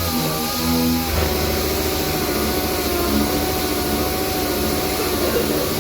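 A motor running steadily with a constant hum, its tone shifting about a second in.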